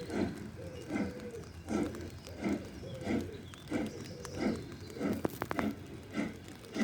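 Steam locomotive working under steam, its exhaust beating at a slow, steady rhythm of about one chuff every 0.7 seconds. A quick run of sharp clicks comes about five seconds in.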